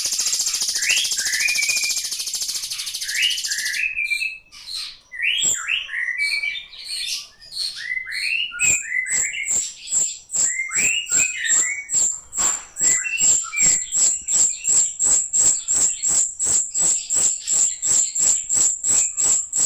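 Ashy drongo singing: a few rising chirped phrases over a steady high hiss, then, about halfway through, a fast string of sharp, piercing repeated notes at about two or three a second that keeps going to the end, the rapid 'tembakan' burst of its song.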